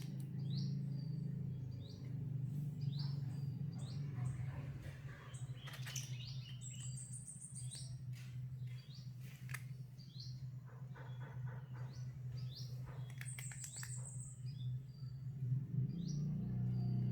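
Short high bird chirps, repeated about once a second, over a steady low hum, with a few clicks in the middle.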